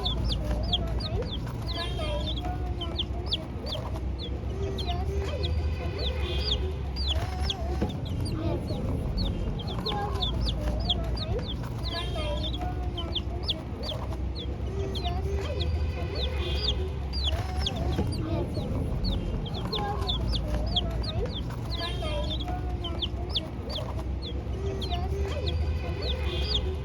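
A group of young chicks peeping nonstop, many short, high, falling peeps overlapping, with lower clucking calls mixed in.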